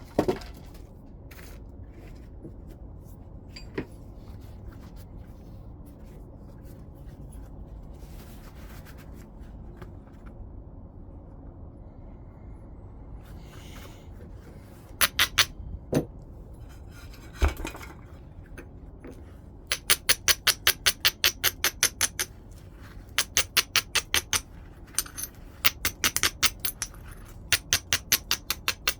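Stone being worked with a knapping tool: a few separate sharp clinks, then from about two-thirds of the way in quick runs of light, even taps, about five a second, on the stone's edge.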